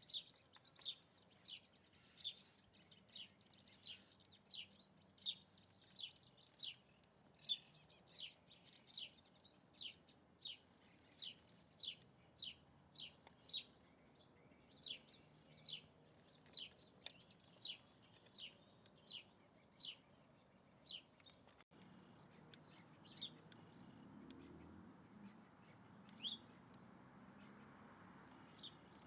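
A bird repeating a short, high, down-slurred call about once every 0.7 seconds. After an abrupt break about 22 seconds in, only three more calls come, spaced a few seconds apart.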